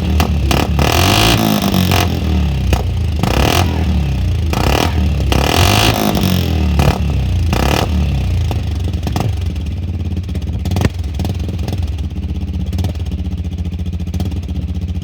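Small engine of a mini car revving repeatedly soon after a cold start, the pitch rising and falling again and again for about the first half, then running more steadily toward the end.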